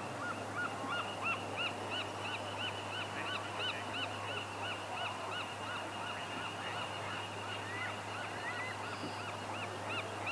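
A bird calling over and over in short notes that rise and fall, about two or three a second, thinning out past the middle and picking up again near the end.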